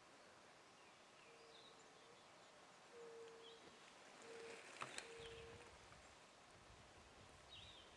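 Quiet woodland: faint, distant songbird chirps, four short, faint, steady held notes of the same pitch, and one small sharp click just before the five-second mark.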